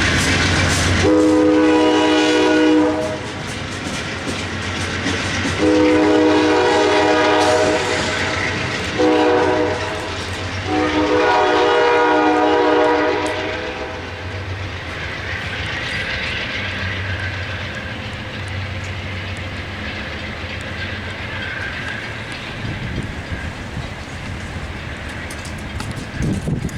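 Locomotive air horn sounding the long, long, short, long crossing signal, followed by a train rolling past with its wheels clicking over the rail joints.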